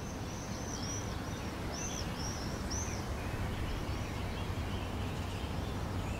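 Steady outdoor background noise with a bird giving a series of short, high chirps, fading out after the first few seconds.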